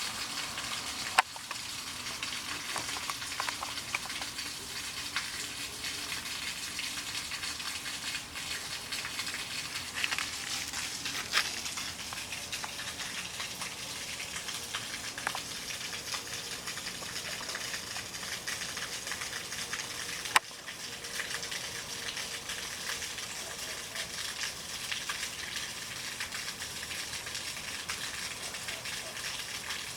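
Floodwater running with a steady hiss, broken by scattered sharp taps.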